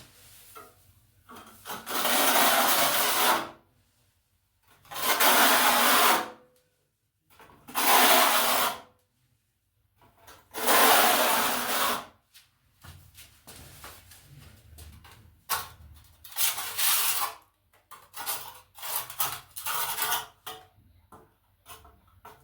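Steel trowel scraping tile adhesive across old glazed wall tiles. First come four long sweeps, then a run of shorter, quicker strokes.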